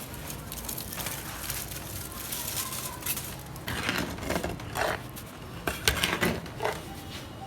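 Cooking pots and utensils being handled: irregular scrapes and clinks, with the sharpest knock about six seconds in.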